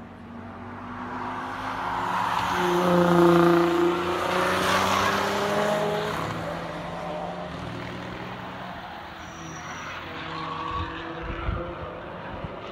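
A performance car passes at speed on a race track. Its engine note swells to the loudest point about three and a half seconds in, then drops in pitch and fades as it goes away. A few low thumps come near the end.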